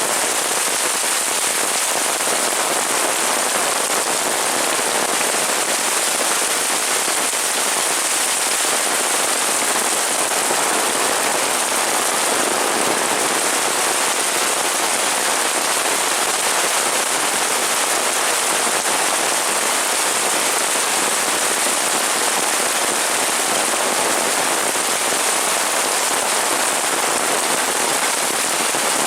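Heavy rain falling and pattering on surfaces, a steady dense hiss that does not let up.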